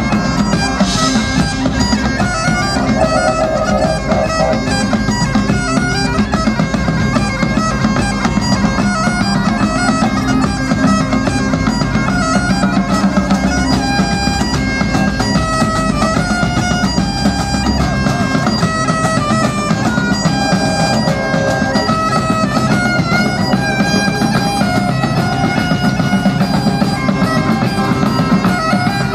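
Highland bagpipes playing a tune over their steady drone, backed by a heavy tribal-style drum section in a live Celtic rock jam. The deepest bass drops away about two-thirds of the way through.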